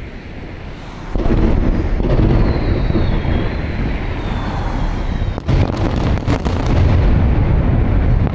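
Aerial fireworks going off in a dense barrage. A continuous rumble of booms starts suddenly about a second in, with a faint falling whistle and a cluster of sharp cracks in the middle.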